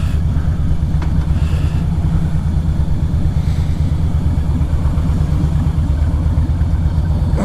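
Harley-Davidson V-twin motorcycle engine running steadily at low revs, a deep even rumble.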